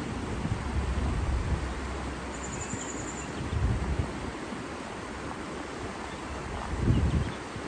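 Outdoor nature ambience: a steady rush of water with wind gusting on the microphone, three low buffeting gusts spread through it. A bird gives a brief high trill about a third of the way in.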